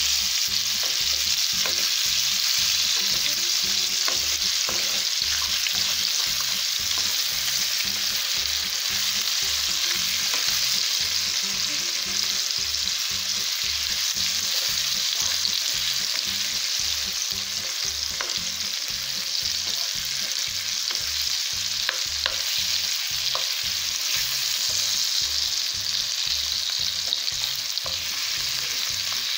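Marinated fish steaks shallow-frying in hot oil in a pan, a steady sizzle, with occasional light scrapes and taps of a metal spatula turning the pieces.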